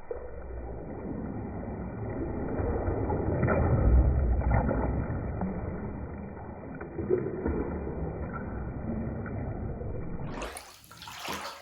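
Bathwater sloshing and churning in waves, dull and muffled, loudest about four seconds in; near the end the sound turns suddenly clearer.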